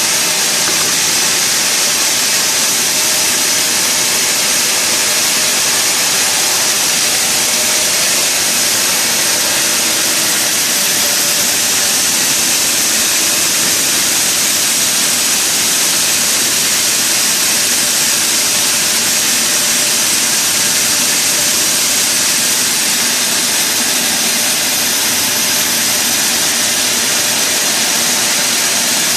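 Sawmill machinery running steadily: a loud, even, unchanging noise with a hissing edge and no separate strokes or breaks.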